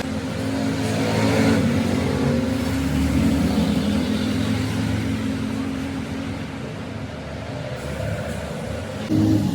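An engine running steadily with a low hum, swelling and easing a little, then stepping up suddenly near the end.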